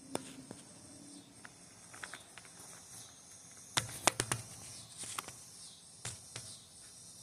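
Crickets chirping steadily, with scattered sharp clicks and light knocks, the loudest a quick cluster about four seconds in.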